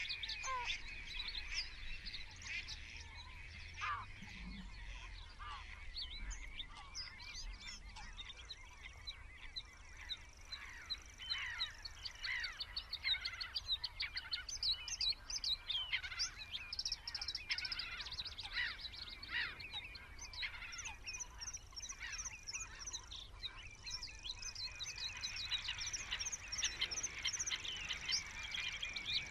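Small birds chirping and twittering, many short quick calls overlapping, with a thin high steady note that comes and goes.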